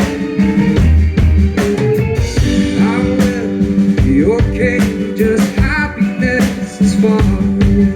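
Indie rock band playing live: drum kit hits keep a steady beat under electric guitar and bass, with a bending melody line above.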